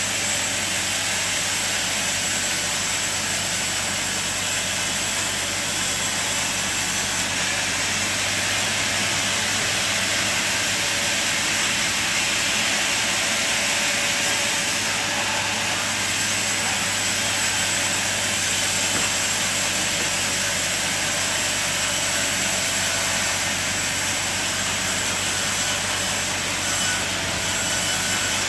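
Sawmill machine running steadily: a constant low motor hum under an even, loud hiss, with no change in pitch or level.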